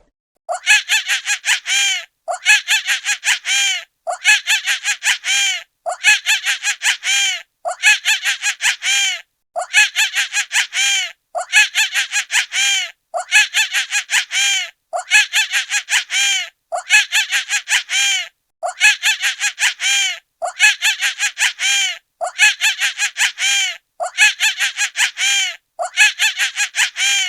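A honking, bird-like call: a quick run of high pitched notes repeated in identical phrases about every two seconds, as if looped.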